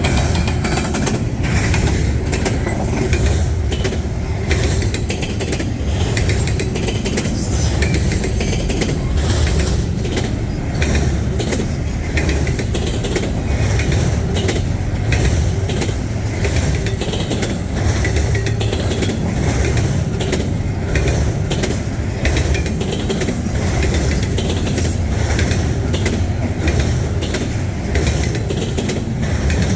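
Freight train rolling past slowly, a steady low rumble of the cars with a stream of irregular wheel clicks and clanks over the rail joints.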